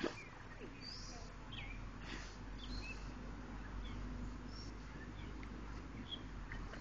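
Small birds chirping in short, scattered calls over a steady low background hum, with one brief knock right at the start.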